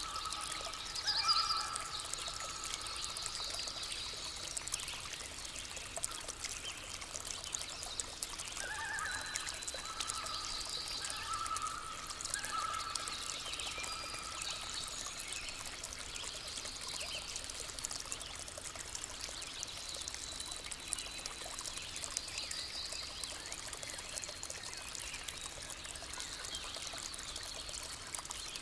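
Small stream or brook trickling steadily, with birds calling at intervals over it: a short burst of calls about a second in and another run of calls about nine to thirteen seconds in, with fainter high trills later.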